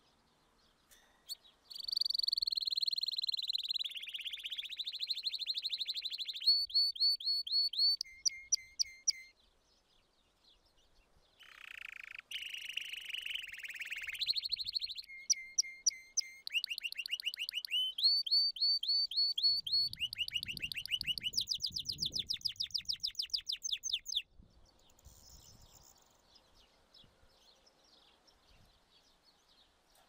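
Songbird singing: long high whistles and fast trills of repeated chirps, with a pause partway through. The song stops several seconds before the end, leaving a faint hiss.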